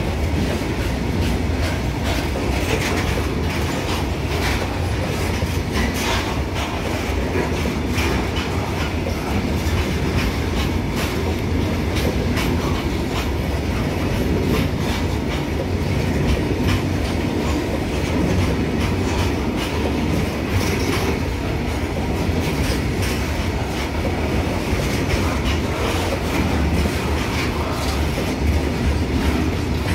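Goods train hopper wagons rolling past close by: steel wheels clicking over the rail joints over a steady low rumble.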